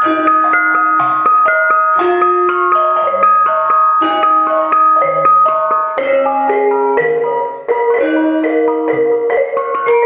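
Javanese gamelan music: a busy run of struck bronze notes from bonang gong-chimes and other metallophones, each note ringing on, with occasional lower struck tones underneath.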